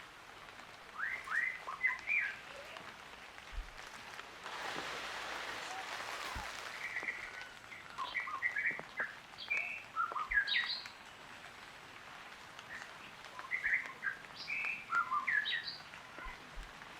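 Three bursts of short, high chirping calls, with a stretch of soft hiss-like noise in between.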